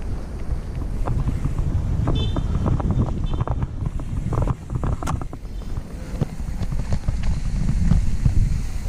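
Wind buffeting the microphone of a mountain bike in motion, with the bike's frame and parts rattling and knocking over a rough dirt trail, many short clatters throughout and a brief high squeal about two seconds in.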